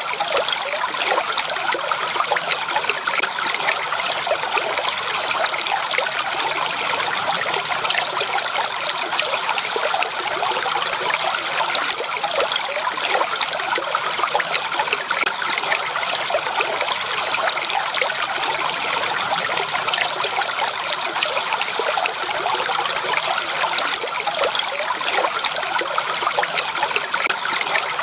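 Stream water flowing and trickling steadily, a continuous babble of many small splashes with no breaks.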